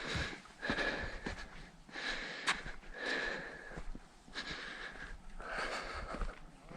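A person breathing hard through the mouth, one heavy breath about every second, with a single sharp click about two and a half seconds in.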